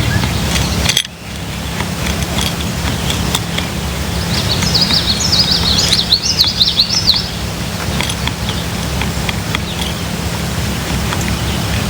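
A songbird calling: a rapid burst of quick, high twittering notes about four seconds in, lasting about three seconds, over a steady low background rumble.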